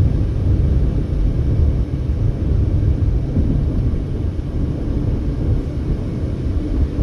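Steady low road and engine rumble of a car driving along a highway.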